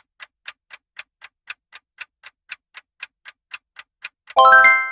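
Quiz countdown-timer sound effect: clock-like ticking, about four ticks a second, while the answer time runs. Near the end comes a bright chime of several ringing tones, signalling that time is up and the answer is about to be revealed.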